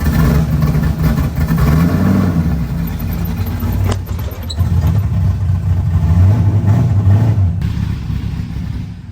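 LS3 V8 engine swapped into a Mazda Miata running at low, uneven throttle as the car is eased down off an open trailer, its note rising and falling, then fading near the end. A single sharp click about four seconds in.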